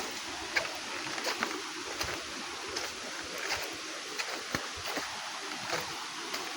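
Stream water rushing steadily, with irregular small clicks and knocks through it.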